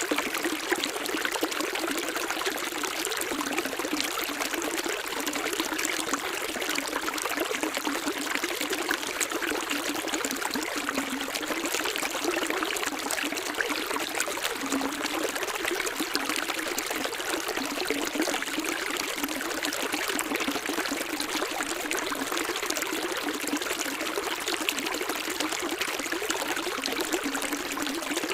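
Running water, a steady splashing trickle and pour like a small stream or cascade, even and unbroken throughout.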